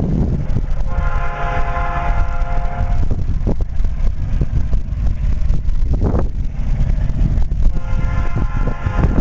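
EJ&E diesel locomotive's air horn sounding two long blasts, the first about a second in and the second starting near the end, over a heavy low rumble.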